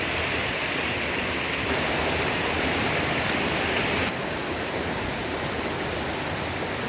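Steady rushing noise of falling water, which drops off suddenly about four seconds in.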